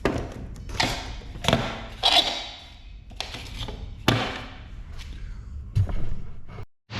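A series of irregular knocks and thuds, about six in the span, over a low steady hum, then a sudden drop to silence near the end.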